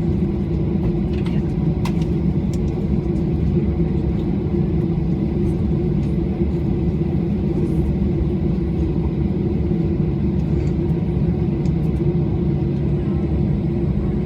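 Steady, even drone of an airliner's engines heard from inside the cabin, with a few faint ticks.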